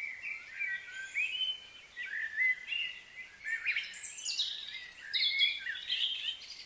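Birds chirping and singing: many short whistled notes and quick trills overlapping one another.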